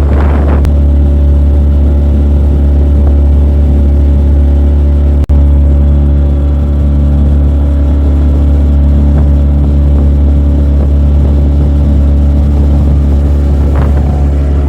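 Motorboat engine running at a steady speed, a loud, even low drone that cuts out for an instant about five seconds in.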